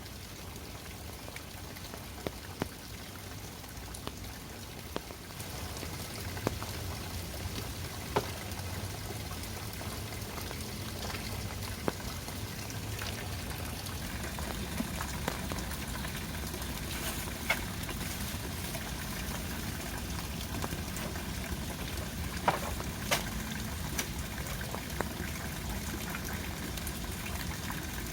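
Heavy rain falling steadily, with scattered sharp drops striking nearby; it grows a little louder about five seconds in.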